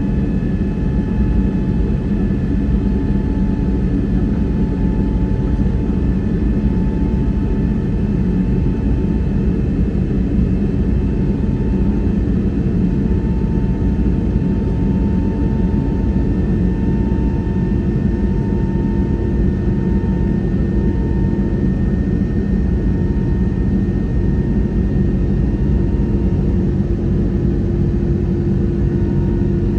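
Airbus A321neo's engines and airflow heard from inside the passenger cabin: a steady, loud, deep rumble with faint high engine tones that drift slowly in pitch.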